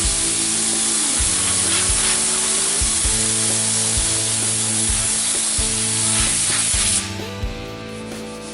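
Compressed-air paint spray gun hissing steadily while spraying, cutting off suddenly about seven seconds in. Background music with a steady beat plays underneath.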